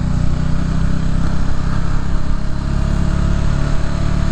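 Motorcycle engine running steadily while riding, heard from the rider's own bike.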